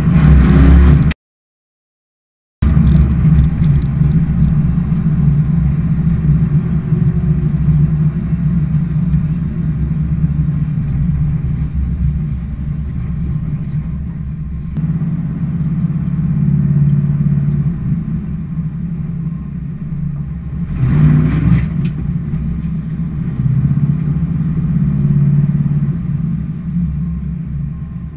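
Interior sound of a 1994 Pontiac Firebird Formula's LT1 V8 with headers, aftermarket exhaust and a mild cam, a steady low rumble whose loudness rises and falls with throttle while driving. The sound drops out completely for about a second and a half near the start.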